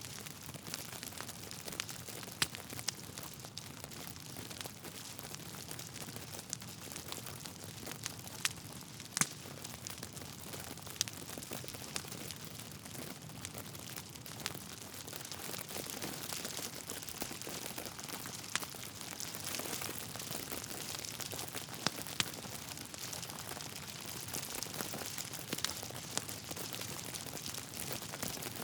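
Log fire crackling steadily over a soft hiss, with scattered sharp pops.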